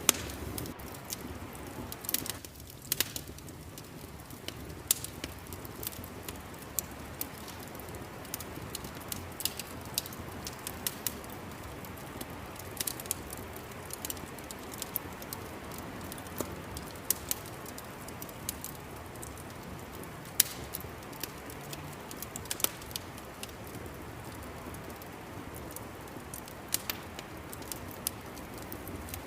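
Fireplace fire crackling: irregular sharp pops and snaps over a steady low hiss.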